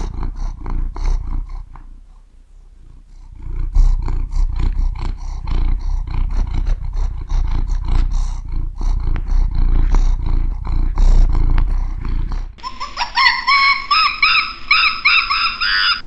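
Neva Masquerade cat purring, a loud, low, continuous rumble with a brief lull about two seconds in. About three-quarters of the way through it cuts to high, repeated chirping calls.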